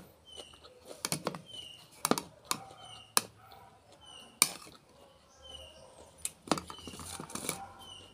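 Close-miked crunching and chewing of raw vegetables, a string of sharp crunches coming in clusters. A bird chirps softly about once a second in the background.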